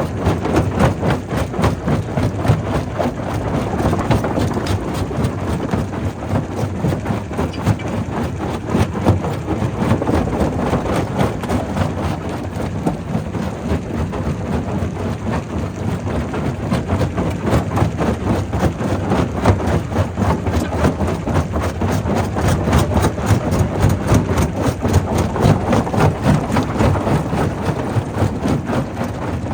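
Primary rock crusher running, crushing stone: a steady low machine rumble with a dense, continuous crackle and knocking of rock breaking and rattling through it.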